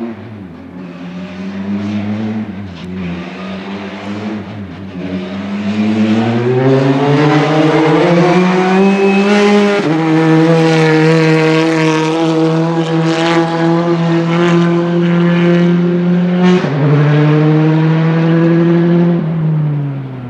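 Rally car engine accelerating hard, quieter at first, then loud as its pitch climbs. The pitch drops sharply at an upshift about ten seconds in and again at a second shift near seventeen seconds, and falls away near the end as the car passes.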